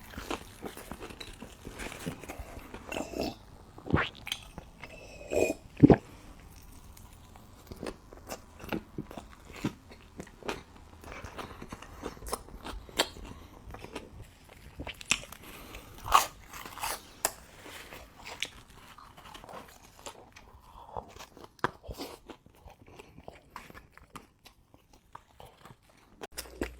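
Close-miked eating: crisp bites and crunching of crunchy food with chewing in between, in irregular clusters of sharp cracks.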